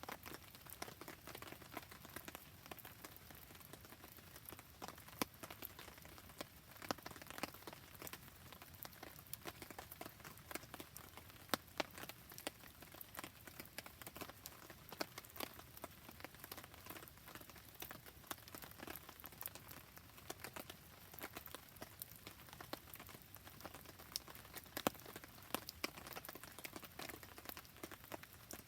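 Rain falling steadily beside a campfire, an even patter with frequent sharp crackles and pops scattered through it.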